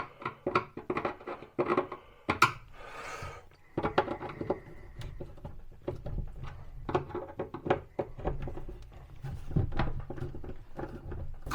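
Small clicks and knocks of a kitchen cabinet door and its hinge being handled and adjusted, with a brief scraping hiss about three seconds in.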